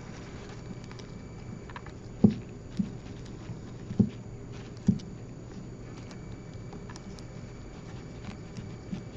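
A handful of dull knocks and light clicks, four of them louder in the middle of the stretch, from small tools and metal parts being handled while the diamond anvil cell's screws are turned out. A faint steady hum runs underneath.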